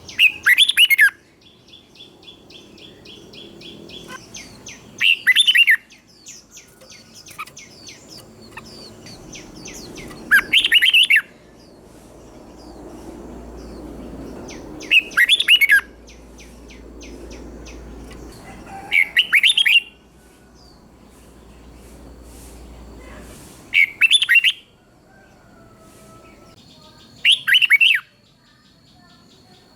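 Red-whiskered bulbul singing short, loud, warbled phrases, seven of them about every four to five seconds, with fainter bird chirps and trills between the phrases.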